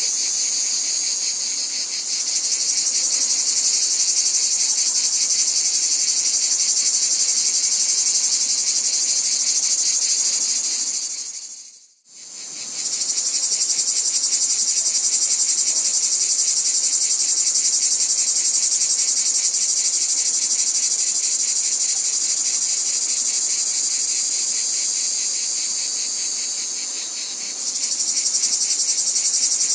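Dense insect chorus of high-pitched, fast-pulsing trills, cricket-like. It fades away to a brief silence about twelve seconds in, then comes straight back.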